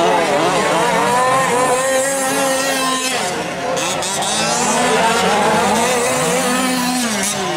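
Several 1/5-scale gas-powered RC off-road trucks racing, their small two-stroke engines revving up and down and overlapping, each rising and falling in pitch over about a second.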